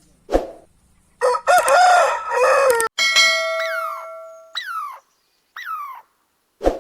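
A rooster crowing once, its call cut off abruptly. A bell-like chime follows, then a string of short falling chirps about once a second. A sharp knock comes just after the start and another near the end.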